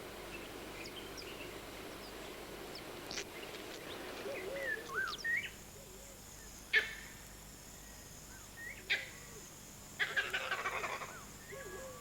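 Birds calling with short, rising and falling chirps, starting after a few seconds of faint steady background hiss. Sharp clicks come twice in the middle, and a buzzy rattle sounds near the end.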